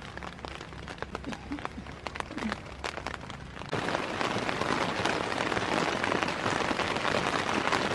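Rain falling: scattered drop impacts at first, then a sudden change a little under four seconds in to a dense, steady, louder hiss of heavy rain.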